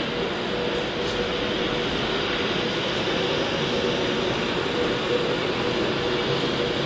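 A train running, with a steady noise and a steady low hum.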